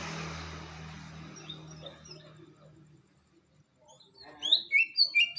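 Cucak ijo (green leafbird) singing: a few faint chirps, then from about four seconds in a loud run of quick whistled chirps, about three a second. A low hum and hiss fade out over the first second or two.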